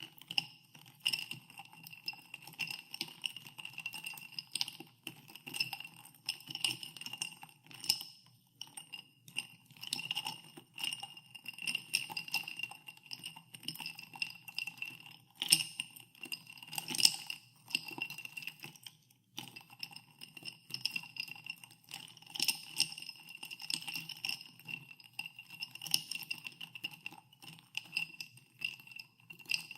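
Ice cubes stirred in a glass of soda water, clinking against the glass in a rapid, uneven stream that makes the glass ring. The stirring pauses briefly a couple of times.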